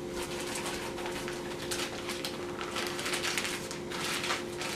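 Powdered sugar being poured and scooped into a mixing bowl: repeated soft, hissing swishes and rustles, over a steady hum.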